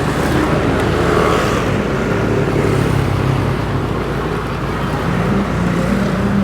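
Motorbike engine running steadily while riding along a city road, with surrounding traffic noise; a higher engine note comes in near the end.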